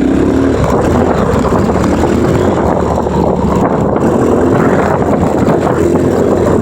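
Dirt bike engine running as it is ridden, its pitch rising and falling a little with the throttle.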